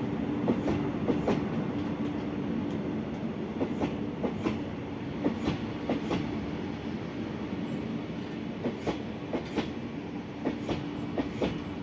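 Heavy freight train rolling past, its wheels clicking irregularly over rail joints above a steady rumble and low hum.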